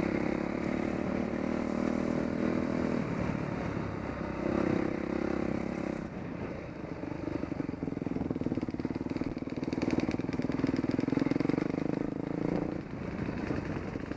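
Dirt bike engine running under way on a trail, its note rising and falling with the throttle and easing off near the end.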